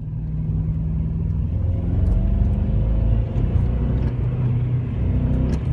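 2006 Acura TSX's 2.4-litre four-cylinder engine idling rough with a misfire, sputtering from one cylinder that has a bad ignition coil or spark plug.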